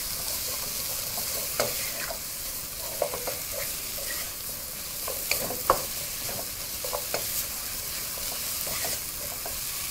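Onions, carrot and tomato chunks frying at high heat in a pot with a steady sizzle, while a wooden spoon stirs them, scraping and knocking lightly against the pot now and then.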